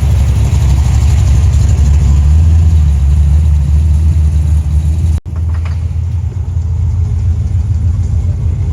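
Muscle car engine running at idle, loud and low-pitched. The sound breaks off for an instant about five seconds in, then carries on a little quieter.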